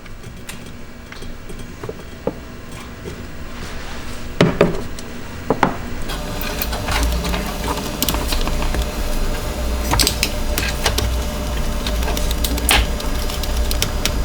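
Scattered metallic clicks and knocks of hand tools and battery-terminal hardware as wire lugs are fastened to a battery's positive terminal. A low steady hum comes in about six seconds in.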